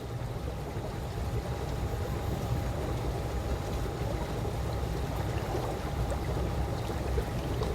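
Swimming pool water lapping, with a steady low rumble and a faint steady hum, swelling up over the first second and then holding even.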